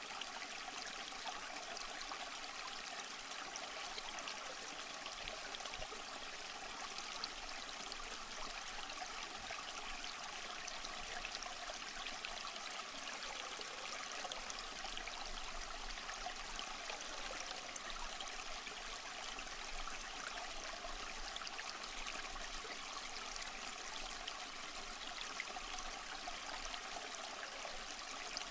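Small stream flowing over rocks: a steady, even rush of water with fine trickling and splashing detail.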